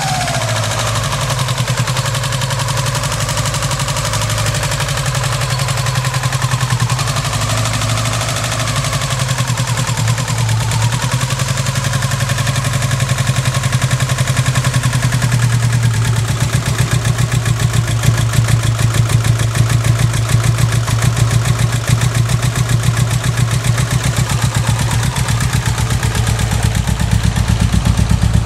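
Subaru EJ18 1.8-litre flat-four engine idling roughly with an uneven, pulsing beat, louder and more pronounced from about halfway through. It sounds as if it isn't running on all four cylinders: a misfire that new plugs and leads and reseated connectors have not cured.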